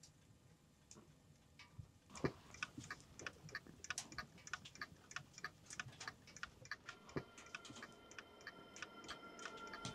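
Faint, irregular rapid ticking, several clicks a second, starting about two seconds in and growing busier, with soft music fading in near the end.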